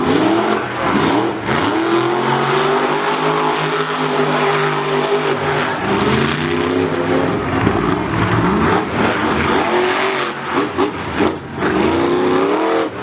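Monster truck engine revving hard, its pitch climbing and dropping again and again, with a run of quick throttle stabs near the end.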